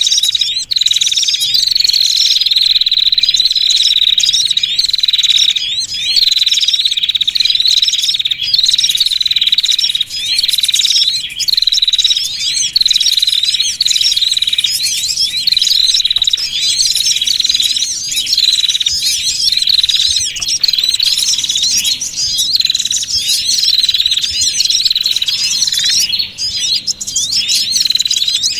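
Bird-lure recording of many small songbirds chattering at once. Rapid, overlapping high chirps and quick up-and-down trills run over a steady high-pitched whine, a busy flock sound used to call small birds in for trapping.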